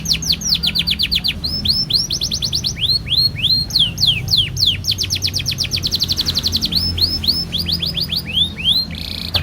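Male domestic canary singing a long unbroken song: fast rolls of repeated, quickly falling notes alternating with rapid trills, the phrases changing every second or so.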